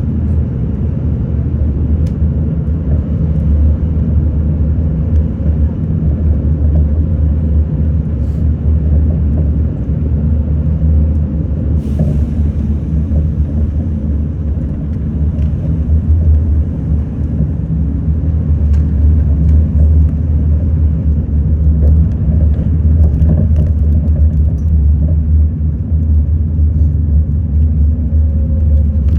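Steady low rumble of a city bus on the move, heard from inside the cabin: engine and road noise, with a single sharp click about twelve seconds in.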